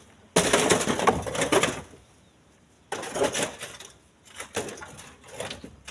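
Split stones clattering as they are thrown into a truck's bed. There is a long rattling burst starting about half a second in, a second burst about three seconds in, and smaller knocks near the end.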